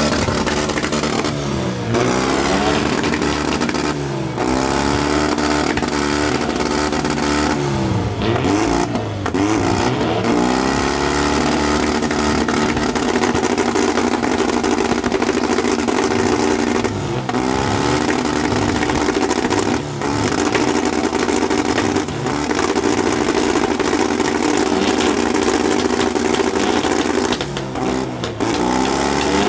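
A car engine revved hard and held at high revs for long stretches, with the revs dropping sharply and climbing back again about 2, 4, 8 to 10, 17 and 28 seconds in.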